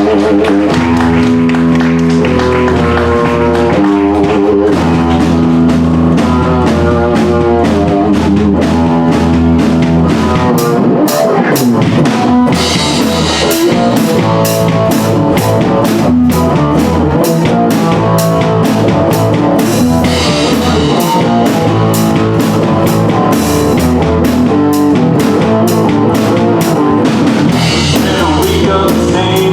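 Live band playing a loud song with a steady beat on drum kit and electric guitar.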